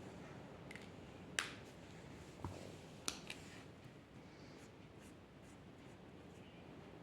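Faint scratching of a drawing tool on paper, broken by a few sharp clicks and taps, the loudest about one and a half seconds in and again about three seconds in.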